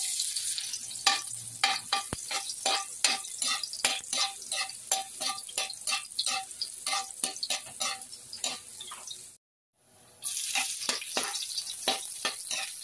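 Chopped garlic and onion sizzling in hot oil in a steel wok, with a metal spatula scraping and clinking against the pan several times a second as it is stirred. The sound cuts out for about half a second roughly three-quarters of the way in, then the sizzling and scraping carry on.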